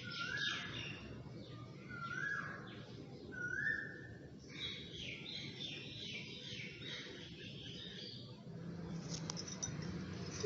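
Several wild birds chirping and whistling, with one bird repeating a short whistled note that slides upward three times in the first few seconds, then a burst of quicker high chirps.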